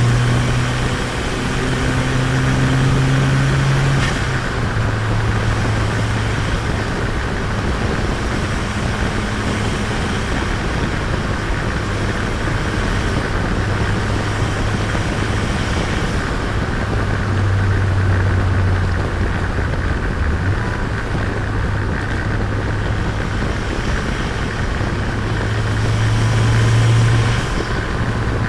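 Turbocharged Nissan Micra engine running under way, with steady tyre and road noise. The engine note drops in pitch about four seconds in, swells louder twice later on, and eases off near the end.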